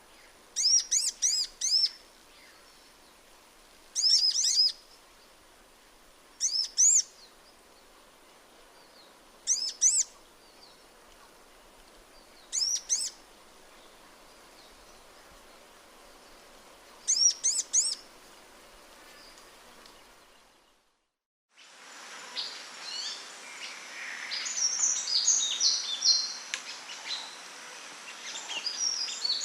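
Sunbird calling in short bursts of three or four quick, high chirps every few seconds. About twenty seconds in, the sound cuts briefly and gives way to a louder, continuous twittering song of rapid high notes.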